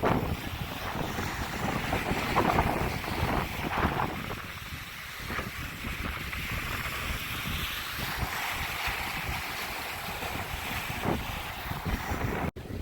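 Strong wind buffeting the microphone in gusts, over the wash of waves on the beach. The sound drops out for a moment near the end.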